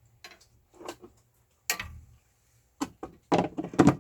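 Handling noises on a benchtop sharpening machine during measuring: a few small clicks, a sharp knock with a low thud a little under two seconds in, and a louder run of clacks and rattles near the end.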